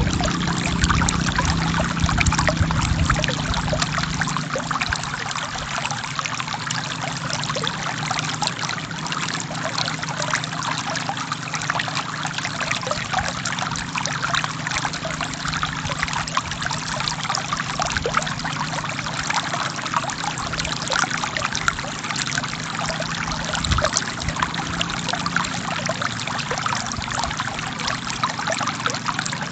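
Forest stream flowing and splashing over rocks, a steady trickling rush with many small splashes. A low hum underneath fades out about four seconds in.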